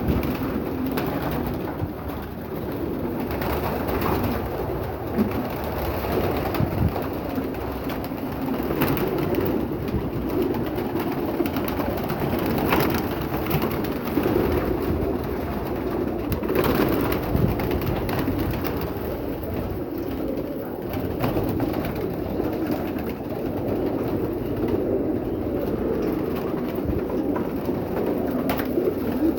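Many pigeons cooing together in a steady, overlapping chorus, with occasional scattered clicks and knocks.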